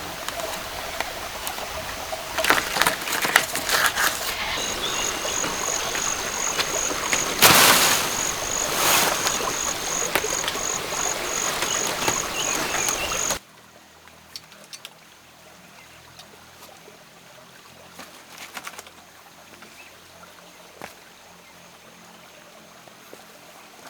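Running water, with a high chirp repeating about twice a second over it. About halfway through it cuts off abruptly, leaving a quiet background with faint ticks.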